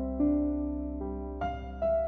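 Soft background music on electric piano: single notes struck about every half second over a held bass note, a gentle, tender melody.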